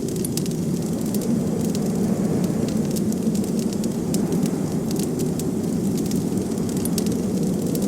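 Crackling wood fire: irregular sharp crackles and pops over a steady low rush of wind.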